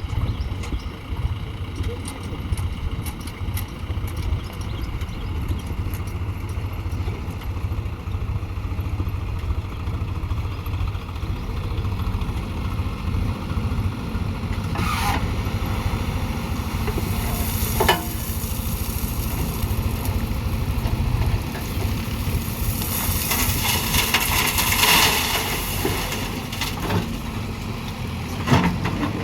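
Diesel engines of a JCB backhoe loader and a tractor running steadily with a low rumble during loading work. Brief sharp noises come about halfway through, and a longer hissing rush comes near the end.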